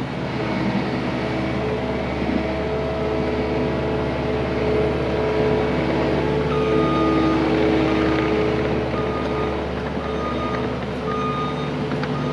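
Cat 259D compact track loader's diesel engine running steadily under work, with its backup alarm beeping repeatedly as the machine reverses in the second half.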